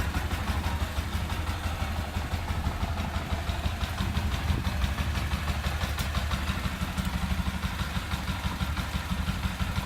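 Motorcycle engine idling steadily, with an even, fast beat.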